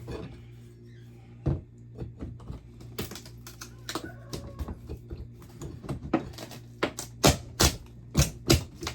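Irregular sharp taps and knocks of a tool working an old nailed-in metal electrical box, prying its nails loose from the wall framing. Near the end comes a quicker run of louder strikes, about two a second.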